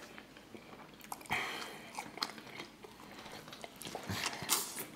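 Close-up eating sounds: a person biting and chewing fried catfish on bread, with moist crunching and small mouth clicks. A larger bite comes near the end.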